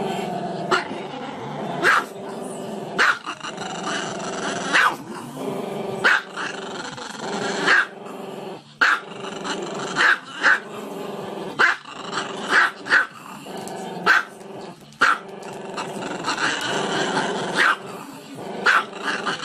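A small dog vocalising without a break in a growly, howl-like voice, punctuated about once a second by short, sharp barks.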